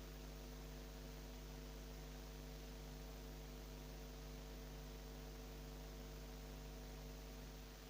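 Steady low electrical hum made of several fixed tones, with no rise in pitch or loudness, easing off slightly near the end.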